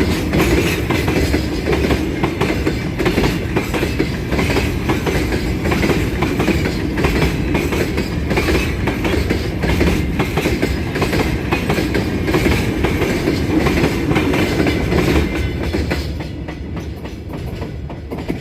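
Freight train wagons rolling past, their wheels clicking over the rail joints, with a steady rumble. The sound fades away about sixteen seconds in.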